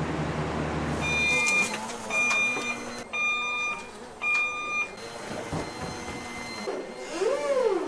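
A low steady hum cuts off about a second in, then an electronic beeper sounds four times, about a second apart, in one high tone. Near the end a short squeak rises and falls in pitch.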